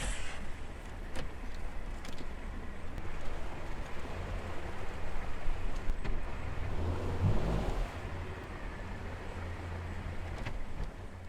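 Narrowboat's engine running steadily at low speed, a low rumble under an uneven, gusting noise that suggests wind on the microphone.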